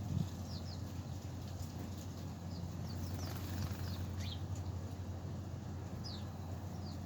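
Small birds chirping at a feeding spot: scattered short, high chirps that slide downward in pitch, heard over a steady low rumble.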